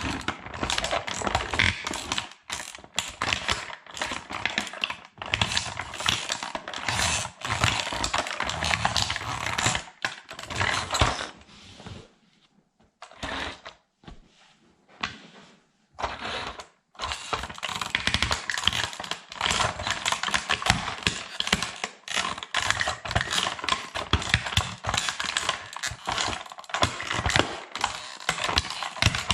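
Plastic toy truck crackling and snapping as it is crushed underfoot: a dense run of sharp cracks and clicks, with a pause of a few seconds near the middle.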